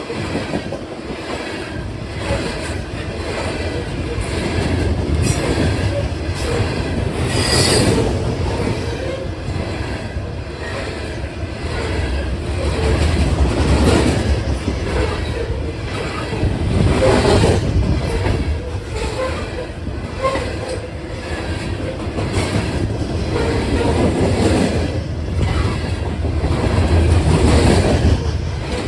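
A train rolling past close by: a continuous rumble of wheels on rail with clacking over the rail joints and some wheel squeal, swelling and easing every few seconds as the cars go by.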